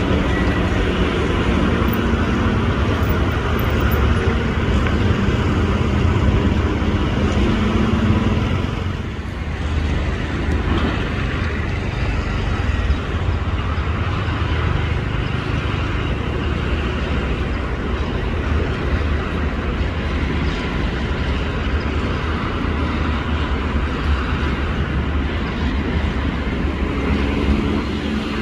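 Steady engine noise from heavy vehicles or machinery running, with a low engine hum in the first part and a brief drop in level about nine seconds in.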